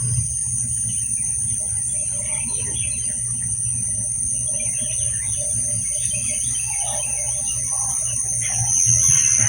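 Evening chorus of crickets in a steady high trill, with scattered frog calls, played back through a speaker and re-recorded, over a constant low hum.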